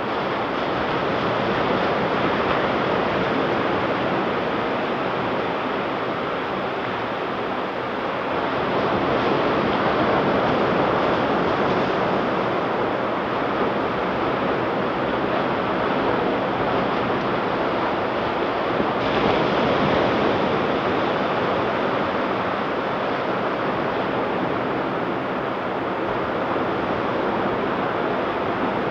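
Ocean surf washing onto a beach: a continuous rushing of breaking waves that swells a little and eases off, with some wind on the microphone.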